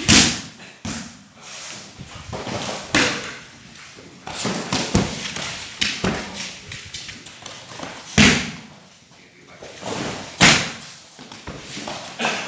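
Pencak silat training: a series of heavy thuds and slaps from strikes, sweeps and falls, about eight irregular impacts, the loudest at the start and about eight and ten seconds in.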